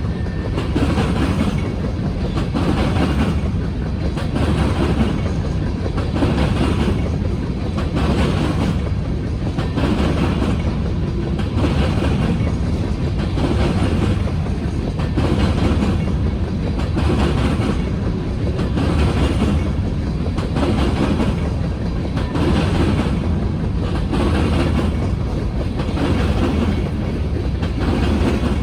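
Freight train of covered grain hopper cars rolling past, wheels clicking over the rail joints in a steady rhythm about once a second over a constant rumble.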